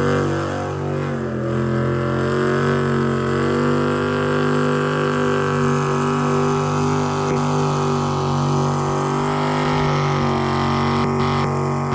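Vehicle engine held at high, nearly steady revs during a burnout, a loud, unbroken drone.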